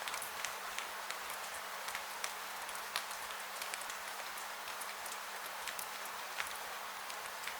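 Rain ambience: a steady hiss of rainfall with irregular sharp drips and drop taps scattered through it, over a faint low steady hum.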